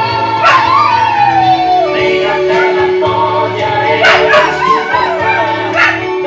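A dog howling along to a gospel hymn: one long howl sliding down in pitch starts about half a second in, and wavering howls follow around four seconds in, over the music.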